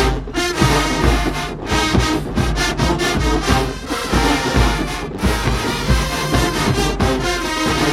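Marching band brass and drums playing a loud up-tempo tune, with several short breaks where the whole band cuts off together.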